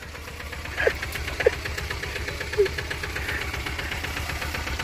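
Rice-field tractor's diesel engine running steadily with a fast, even knocking beat.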